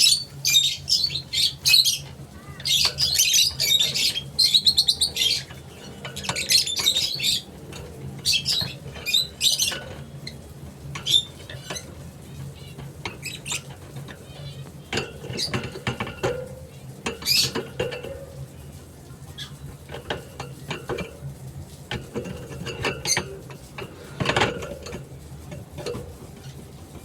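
Young Creamino lovebird chirping in quick high-pitched runs, dense for about the first ten seconds and then scattered single calls, with a few soft knocks and a steady low hum underneath.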